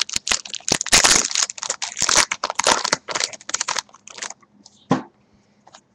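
Foil wrapper of a baseball card pack crinkling as it is torn open and crumpled, dense for about four seconds, then a few scattered crackles with a sharper one near the end.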